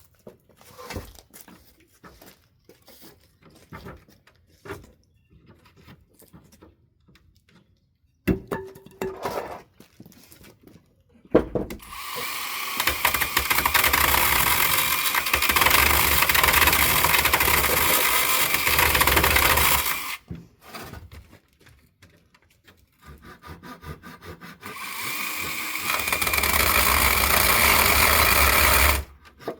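Scattered knocks of wood being handled, then a power saw cutting through pallet wood in two long runs, the first about eight seconds and the second about four seconds.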